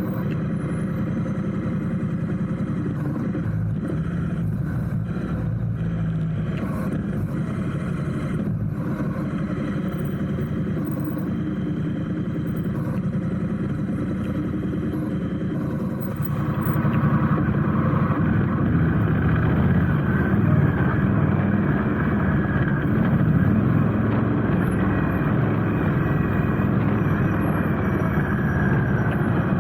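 Motorcycle running at riding speed, a steady low engine hum with road and wind noise; it steps up in level about halfway through.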